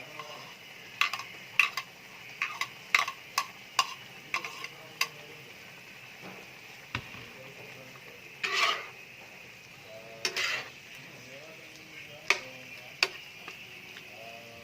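A metal utensil stirring food in a pan, clinking sharply against the pan many times in the first few seconds, then scraping it in longer strokes, over a steady sizzle of frying.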